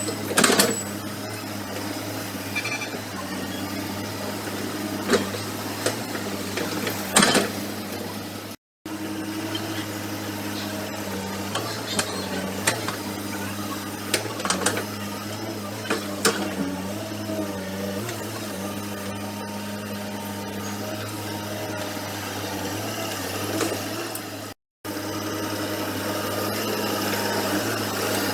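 Heavy diesel engine of earthmoving machinery running steadily, with several sharp metallic knocks. The sound cuts out abruptly twice, for a moment each time.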